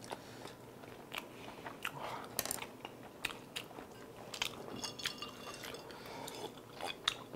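People chewing cheese-topped tteokbokki close to a clip-on microphone: irregular wet clicks and mouth smacks.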